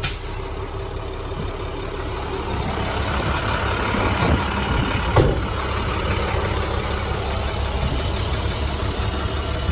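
Diesel engine of a 2014 International DuraStar 4300 box truck, a 7.6-litre MaxxForce, idling steadily, with a single knock about five seconds in.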